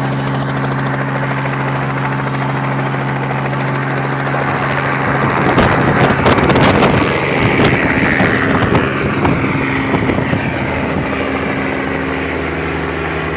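Helicopter running with a steady low hum. From about five seconds in, a louder rushing, buffeting noise with a gliding whine lasts several seconds, then fades back to the steady hum.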